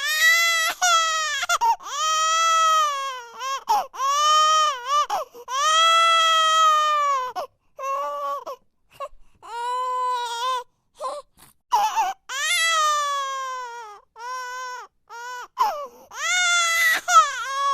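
Baby crying: high-pitched wails a second or two long, each rising and then falling in pitch, broken by short catches of breath and a few quick sobs.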